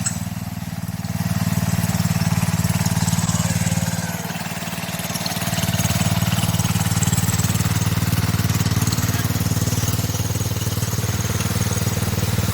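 Engine of a 1973 112 garden tractor running steadily; it drops off about four seconds in and comes back up a second or so later.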